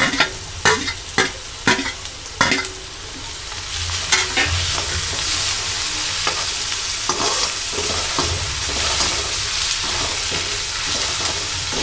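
A steel spatula taps sharply several times in the first couple of seconds as crushed ginger and garlic go into the kadai. Then onions and ginger-garlic fry in hot oil with a steady sizzle while the slotted spatula scrapes and stirs them around the steel kadai.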